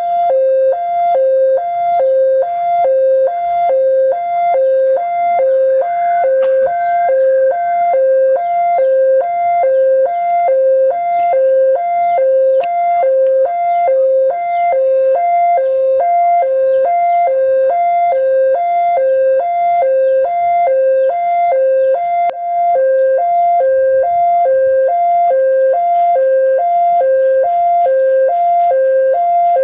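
Railway level-crossing warning alarm sounding a steady two-note electronic chime, a lower and a higher tone alternating a little over once a second: the signal that a train is approaching and the crossing is closing.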